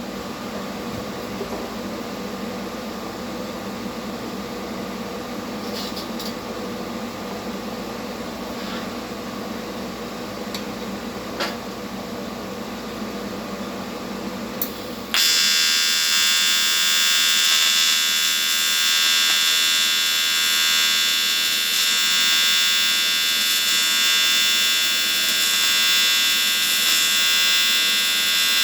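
Vulcan ProTig 205 welder humming with its fan, with a few small clicks, then about halfway through an AC TIG arc on aluminum strikes and buzzes steadily and loudly to the end.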